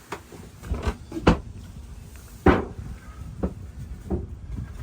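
A string of about five sharp knocks and clunks of storage boxes being handled and opened, the loudest about a second and two and a half seconds in.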